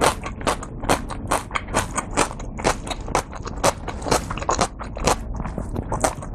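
Close-up chewing of a mouthful of dumplings, picked up by a lapel mic, with a quick run of sharp, moist clicks about four a second.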